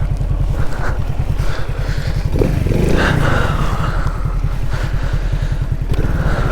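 Alfa moped's single-cylinder four-stroke engine running at low revs with steady, even firing, briefly rising in revs about two and a half seconds in.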